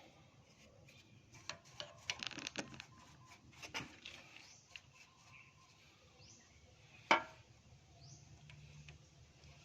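Light clicks and rattles of small parts and tools being handled during a carburetor strip-down, a cluster of them early on and one sharp click about seven seconds in.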